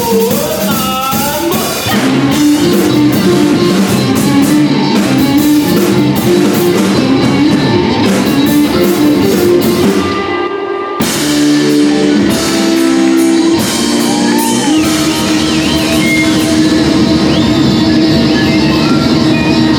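A rock band playing live: electric guitar over a drum kit, with a short break about ten seconds in before the band comes back in.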